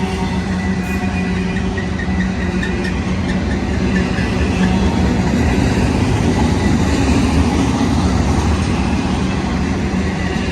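Diesel-hauled double-stack freight train passing close by: a steady low locomotive engine drone over the continuous rumble of rolling cars, growing a little louder through the middle.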